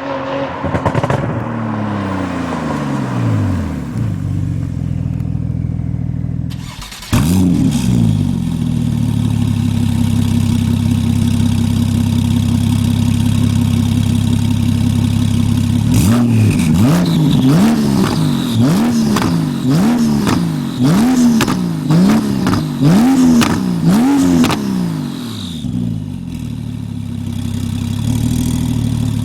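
PP-Performance Stage 2 tuned Porsche 991 Turbo S twin-turbo flat-six starting up about seven seconds in, then idling. Later comes a run of about nine quick throttle blips, with crackles and pops from the exhaust as each rev drops, before it settles back to idle.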